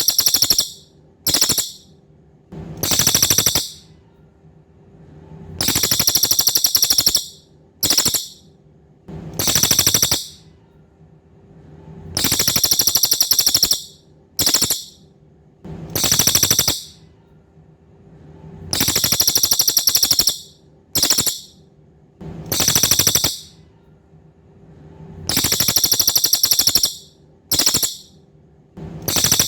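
Cililin songbird singing: a high, very rapid buzzy trill in phrases, a long phrase, a short one and another long one, a set that repeats about every six and a half seconds as a looped training recording.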